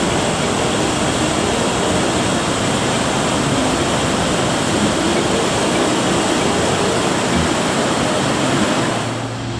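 Steady rush of ocean surf: a continuous hiss of breaking waves and moving water, easing off just before the end.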